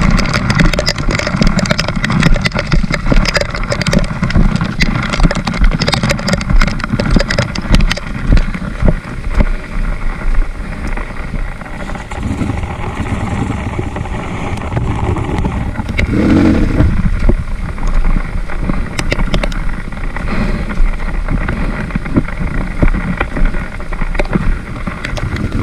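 Trail motorcycle's engine running while riding, with many sharp knocks and rattles over the first several seconds.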